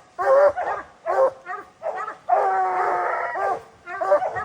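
Bear hounds baying: a run of short, pitched barks with one long drawn-out bawl about two seconds in.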